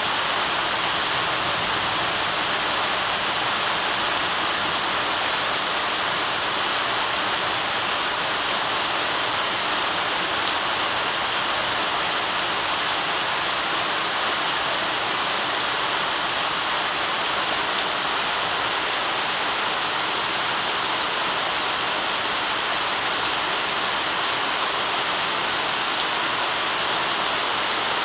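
Heavy downpour of rain, a steady, even rush of falling water that does not let up.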